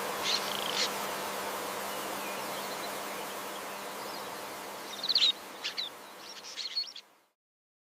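Faint countryside ambience: a steady low hum and insect buzz, with a few short, high bird chirps, the loudest about five seconds in and more near the end. The sound cuts off about a second before the end.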